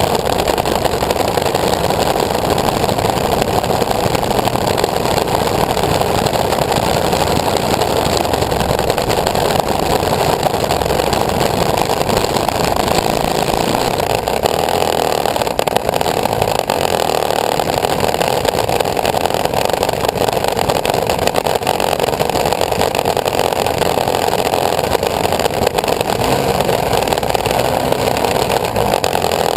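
Engine of a homemade aircraft running loud and steady, with no change in speed.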